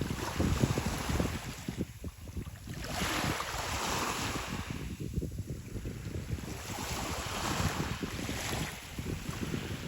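Sea waves washing onto the shore in slow surges about every three seconds, with wind buffeting the microphone.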